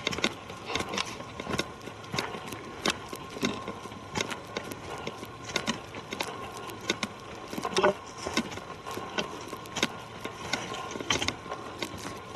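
Footsteps crunching along a forest trail, with irregular sharp crunches a few times a second over a faint steady high tone.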